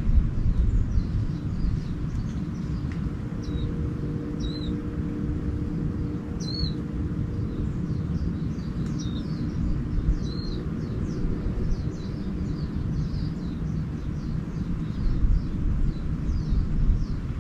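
Small birds chirping, many short hooked notes throughout, over a steady low rumble. A faint steady hum joins from about four seconds in.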